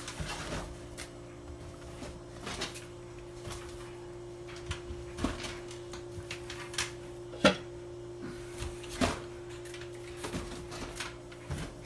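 Scattered light knocks and clicks, as of objects being handled, over a steady low hum; the sharpest knocks come about five, seven and a half, and nine seconds in.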